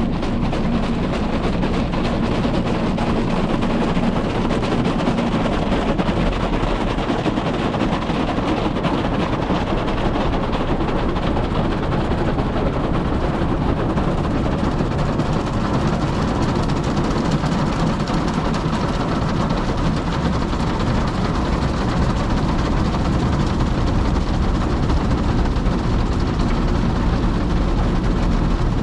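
Automatic car wash running: a loud, steady rush of water spray and machinery noise on the car.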